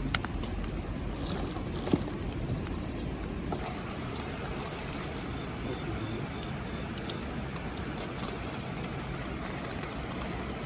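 Crickets or other insects trilling steadily at one high pitch over a steady low rushing background, with two sharp pops near the start and about two seconds in.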